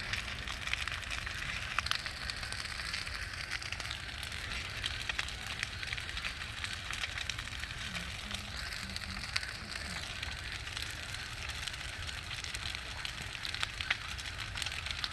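Bonfire burning with a steady crackle and frequent sharp pops.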